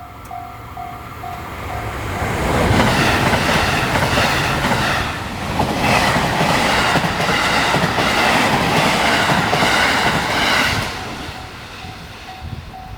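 A level-crossing warning bell rings in an even, repeating pulse. About two seconds in, an electric train passes the crossing at speed for about nine seconds, with its wheels clattering on the rails, and drowns out the bell. As the train fades near the end, the bell is heard again.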